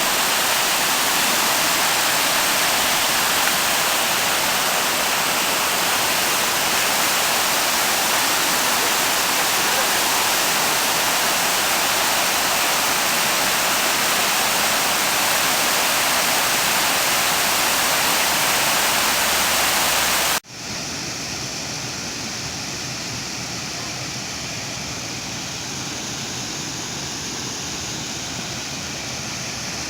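A mountain waterfall's rushing water, a loud, steady rush. About two-thirds of the way in it cuts off abruptly to a quieter, steady rush of water.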